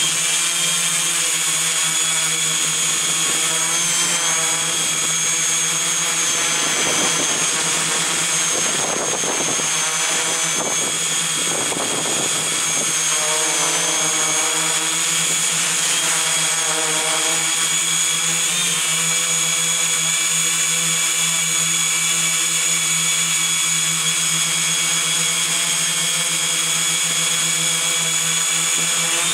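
Electric motors and propellers of a multirotor drone running steadily: a constant hum with a high whine over hiss, the pitch shifting slightly now and then.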